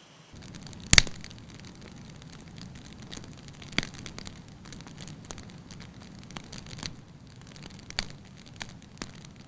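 Wood campfire crackling, with a constant patter of small snaps and a few sharp pops, the loudest about a second in.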